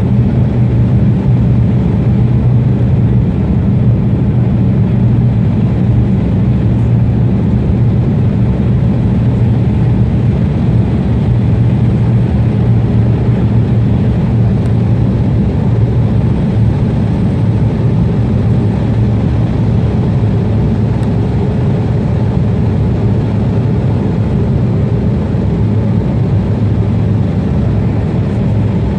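Airliner jet engine noise: a loud, steady low rumble.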